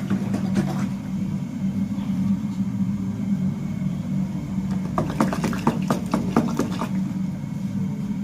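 A motor running with a steady low hum, with a run of light clicks and knocks about five to seven seconds in.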